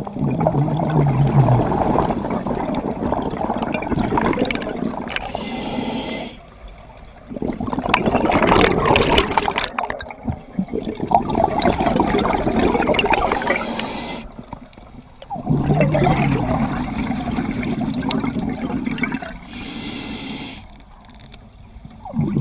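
Scuba diver breathing through a regulator underwater. Each breath is a short hiss of inhalation, then a long rush of exhaled bubbles, repeated over several breaths.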